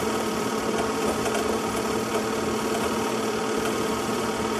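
A steady mechanical whirring hum with no change in level.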